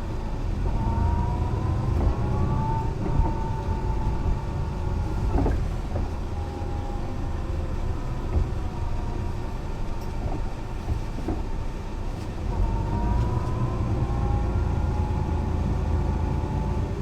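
Mercedes-Benz O 405 NÜ bus under way: a deep engine rumble with a drivetrain whine that rises in pitch as the bus picks up speed, once about a second in and again later on.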